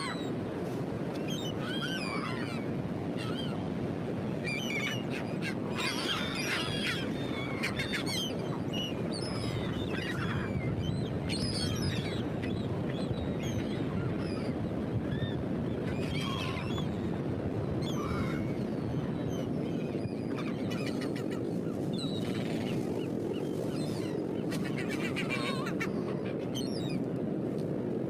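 Steady wash of Atlantic surf on a beach, with birds calling repeatedly over it in short high cries.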